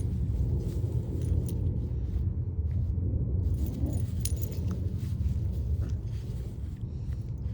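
Steady low rumble with faint, scattered metallic jingling and clicks over it.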